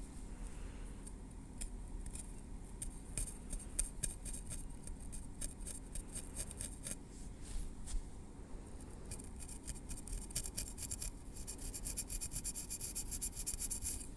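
Metal tweezers working through hair at the scalp: a run of fine, quick clicks and scratches that grow denser and louder near the end.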